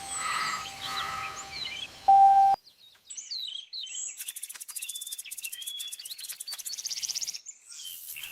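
Birds chirping and twittering in quick high calls, with rapid trills in the middle stretch. Over the first couple of seconds a steady held tone sounds under the chirps and cuts off suddenly.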